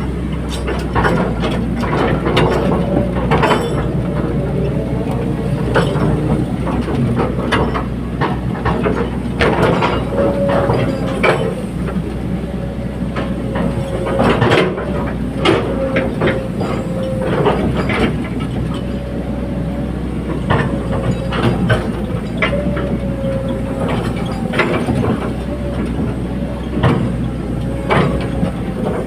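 Caterpillar 320D hydraulic excavator running steadily, with many sharp metallic clanks and clicks and a squeal that comes and goes.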